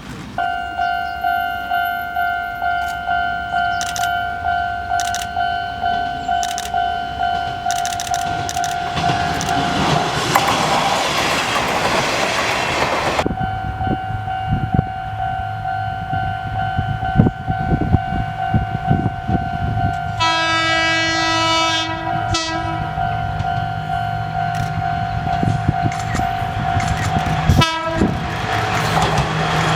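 Japanese level-crossing warning bell clanging in a steady pulsing tone, about twice a second, while a Kominato Railway train passes with a rush of wheel and engine noise. The alarm sounds on, and about two-thirds of the way through the train's horn blows for a couple of seconds.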